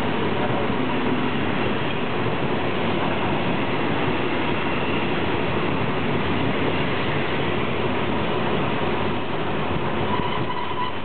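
Blue-and-white passenger coaches of a night express train rolling past at close range: a loud, steady rumble of wheels on rail. A faint high squeal creeps in near the end.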